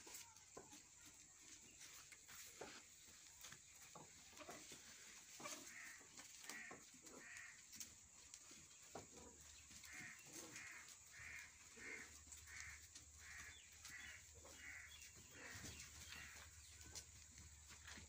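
Faint bird calls: short notes repeated in series, a few spaced out, then a steady run of about ten at under two a second, among scattered light clicks and rustles.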